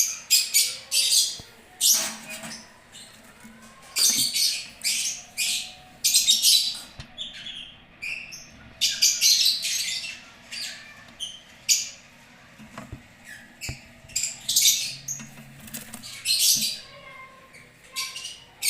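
Lovebirds chirping and screeching: many short, shrill calls in quick, overlapping clusters, with brief lulls between.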